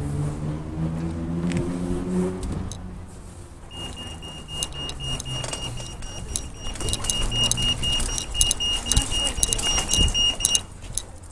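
A motor vehicle passes for the first couple of seconds, then a pedestrian crossing's beeper sounds a rapid, high-pitched pulsing beep for about seven seconds and cuts off suddenly, with light clicks and rattles mixed in.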